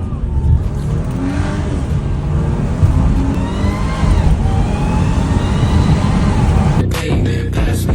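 Audi 3.0 TFSI supercharged V6, fitted with a cold air intake, accelerating hard. The engine note climbs in pitch, dips at a quick gearshift about four seconds in, and climbs again. Music starts near the end.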